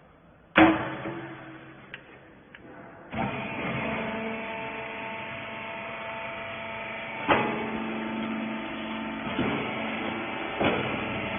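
Rag baler machine running: a loud knock about half a second in, then from about three seconds in the steady hum of its electric motor and hydraulic pump, with a few sharp knocks along the way.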